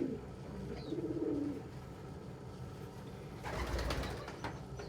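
Domestic pigeon cooing twice in the first second and a half, low and warbling. A brief rustling noise follows about three and a half seconds in.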